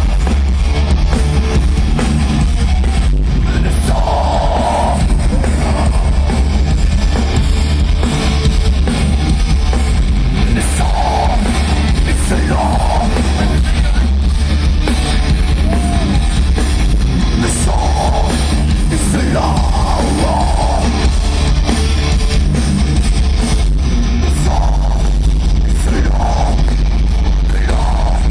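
Loud heavy metal music: distorted electric guitar and drum kit with singing over them, played continuously.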